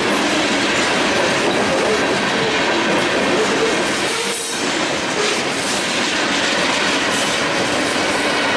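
Freight train cars rolling past at close range, wheels clacking over the rail joints with some wheel squeal. The sound dips briefly about halfway through.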